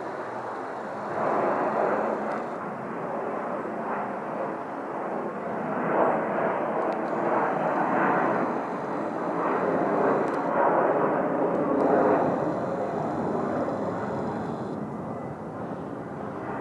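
Military fighter jet's engine roar during a steep climbing turn overhead, a continuous rushing noise that swells and eases several times.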